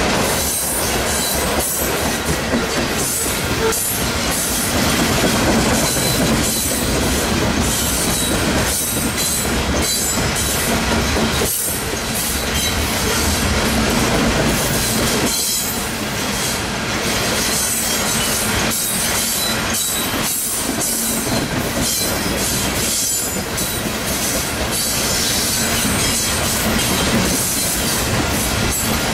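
Union Pacific freight train cars rolling past at close range: a steady, loud rumble of wheels on rail, with repeated clacks as the wheels cross rail joints.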